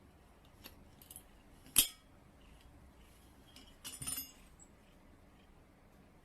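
A few faint, sharp clicks and light clinks with quiet between them. The clearest comes about two seconds in, and a short cluster follows near the middle.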